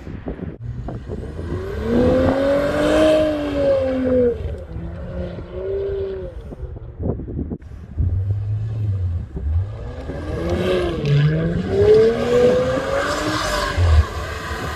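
2018 Audi S5's turbocharged 3.0-litre V6 through a Milltek aftermarket exhaust, revving up and back down twice, about two seconds in and again about ten seconds in, with a steadier lower note between. A short sharp knock comes near the end.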